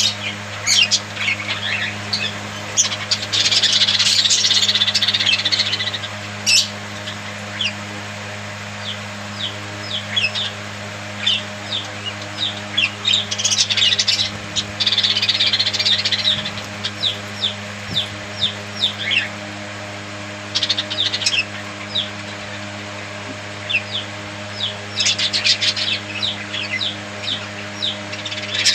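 A group of pet budgerigars chirping and warbling in rapid high chatter, rising into denser bursts several times. A steady low hum runs underneath.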